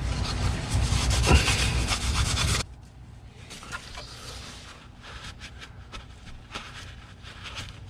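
An oil funnel being pulled out, rubbing and scraping against plastic for about two and a half seconds before the noise cuts off suddenly, followed by quieter scattered rubbing and light clicks.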